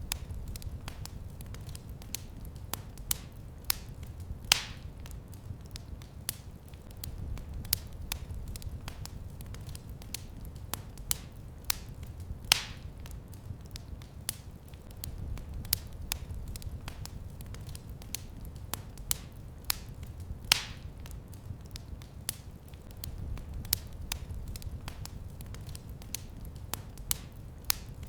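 Wood fire crackling in a fireplace: irregular sharp snaps and pops over a low steady rumble, with a louder pop about every eight seconds.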